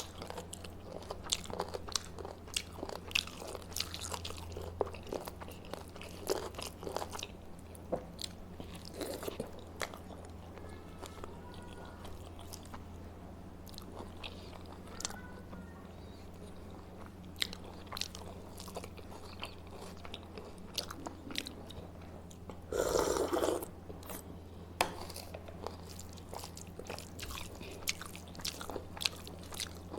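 A person chewing and biting food up close to the microphone: many small crunching clicks throughout, with one louder, noisier burst about 23 seconds in. A steady low hum lies underneath.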